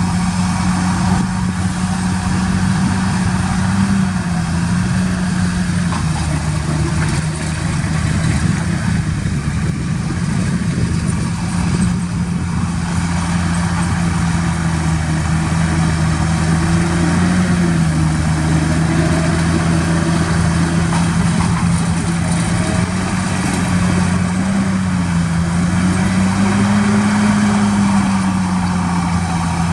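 Heavy earthmoving machine's diesel engine running steadily, its engine speed rising slightly a few times and easing back.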